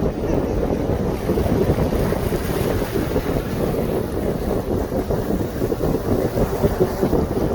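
Wind buffeting the microphone aboard a boat under way, a steady low rushing noise that flickers in level, with the wash of water beneath it.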